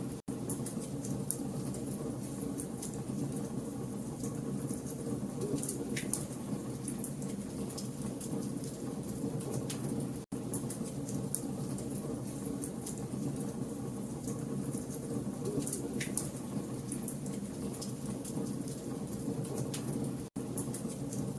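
Campfire logs burning and crackling: a steady hiss with frequent sharp snaps and pops. The sound drops out to silence for an instant three times, about ten seconds apart.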